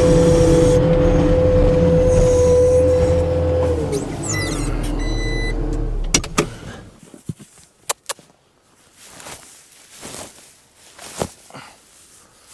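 Skid steer loader engine running with a steady high whine. The whine drops away about four seconds in, and the engine shuts off about six seconds in, leaving a few scattered clicks and knocks.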